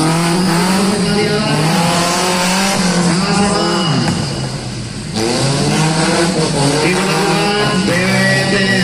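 A car's engine revving up and down repeatedly through a slalom course, its pitch falling as it lifts off and rising again as it accelerates, with some tyre squeal.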